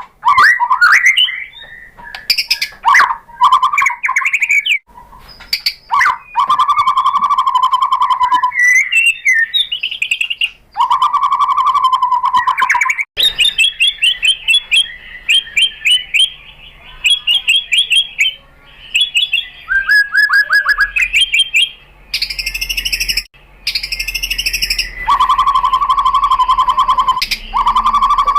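White-rumped shama singing a loud, varied song: rapid trilled notes held on one low pitch for a couple of seconds, quick chattering runs and high whistles, the phrases breaking off abruptly.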